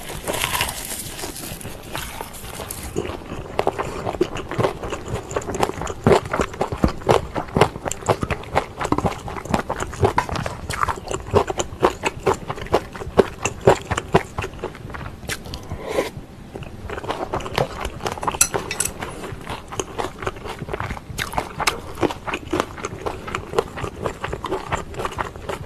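Close-miked mouth sounds of eating pork and kimchi stew: wet chewing, biting and smacking in an irregular stream of small clicks, with a short lull about two-thirds of the way through.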